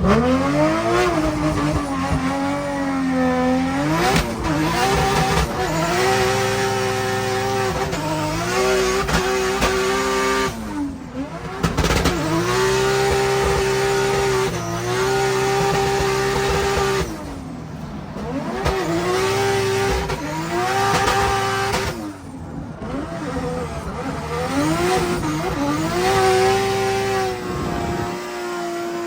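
A drift car's engine revving hard, again and again: the revs climb, hold steady high for a few seconds at a time, then drop and climb again, with tyres squealing.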